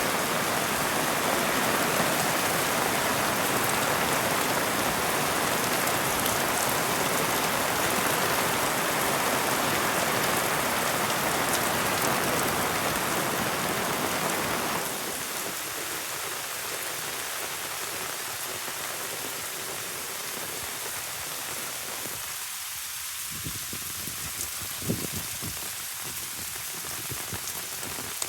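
Heavy rain falling steadily. About halfway through it drops suddenly to a quieter, thinner patter, with a few sharp drip taps near the end.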